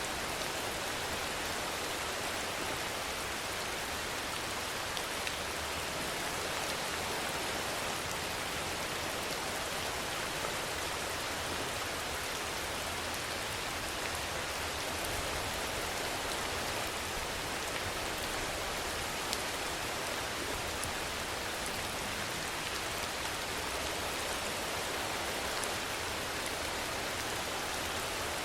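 Steady rainfall: an even hiss of rain with scattered small drop ticks, holding at one level throughout.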